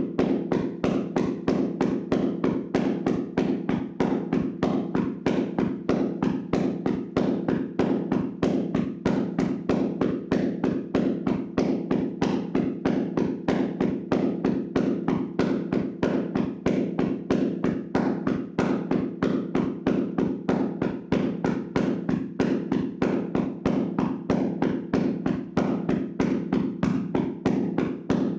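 Hands rhythmically slapping and tapping on a person's body in a vigorous tapping massage: a steady run of dull thuds, about four a second, without a break.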